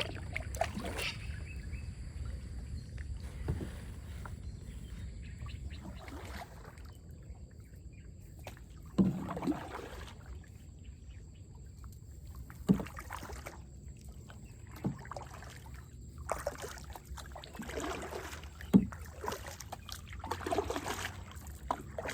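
Small boat on the water with water sloshing and splashing against it, and a few sharp knocks on the hull, under a steady low rumble.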